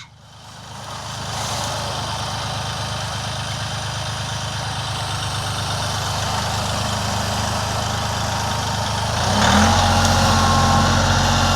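Tractor engine running steadily; about nine seconds in it revs up and gets louder, with a rising then steady whine, as the tractor takes up the load of a chained log.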